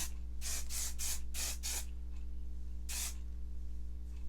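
Aussie Headstrong Volume aerosol hairspray sprayed onto curled hair in short hissing spritzes: five quick ones in the first two seconds, then one more about three seconds in.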